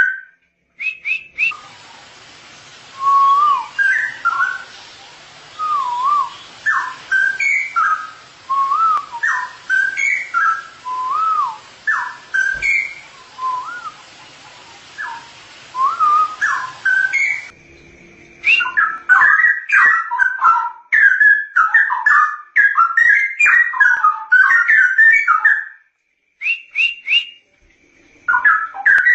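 Straw-headed bulbul (cucak rowo) singing loud, clear whistled phrases that swoop up and down, one after another with short pauses. A little past halfway the recording changes to a quicker, busier run of notes.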